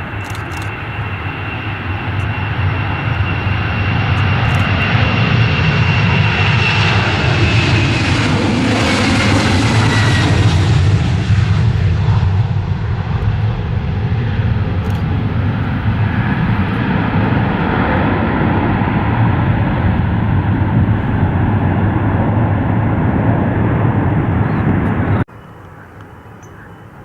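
Jet airliner passing close by, its engine noise building to a peak with a low rumble. A high whine drops in pitch as it goes past, and the sound cuts off suddenly near the end.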